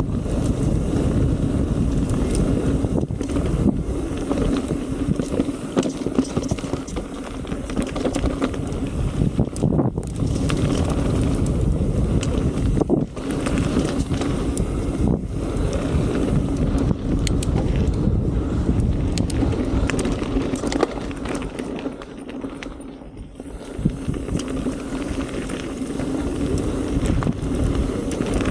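Mountain bike riding a dirt singletrack: wind rushing over the chest-mounted camera's microphone, with the bike rattling and sharp knocks as it hits bumps. The noise eases off briefly a little past twenty seconds, then picks up again.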